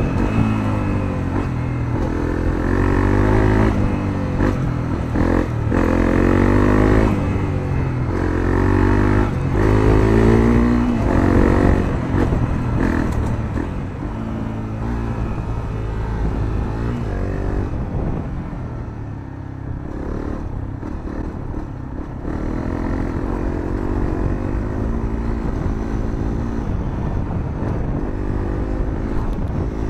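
Honda CRF250L's single-cylinder four-stroke engine exhausting through a Moriwaki aftermarket muffler, heard onboard while riding: the engine note climbs in pitch and drops back several times in the first dozen seconds, settles lower and a little quieter in the middle, then climbs again in a few pulls near the end.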